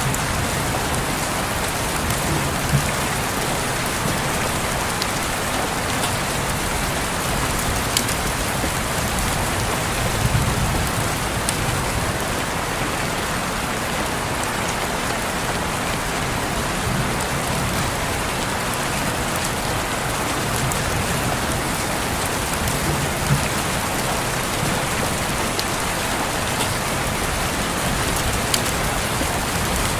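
Steady rain on window glass, an even hiss, with now and then a single louder drop ticking sharply.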